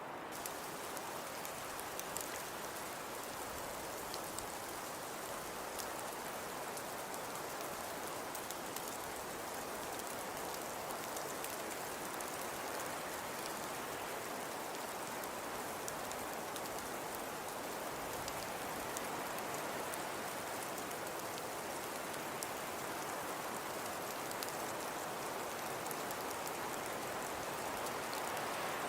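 Snowfall ambience: a steady, even hiss of falling precipitation with many fine, light ticks pattering through it, much like sleet or rain on a surface.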